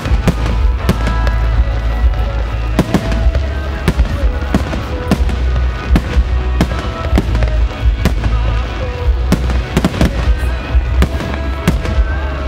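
Aerial fireworks bursting in quick succession, a few sharp bangs and crackles a second over a steady low rumble, with music playing underneath.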